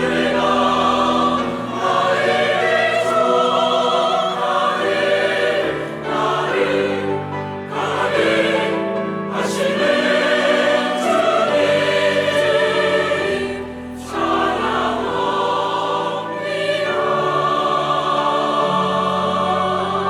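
Church choir singing a sacred anthem in full sustained phrases, with instrumental accompaniment, the phrases breaking off briefly a few times.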